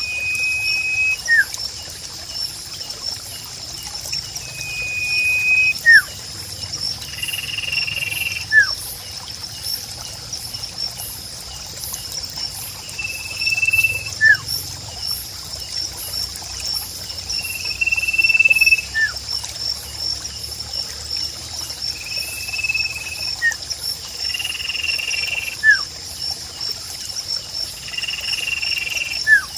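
Sirpu bird calling over and over, about every three to four seconds: a steady high whistle lasting under a second, followed by a short falling note. Behind it run a constant high insect trill and trickling water.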